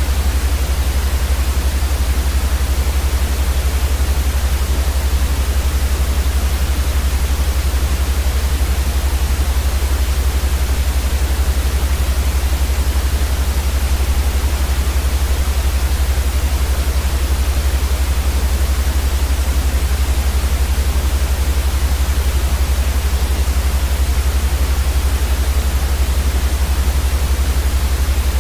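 Steady white noise for sleep: an even, unchanging hiss across all pitches with a strong low rumble beneath it.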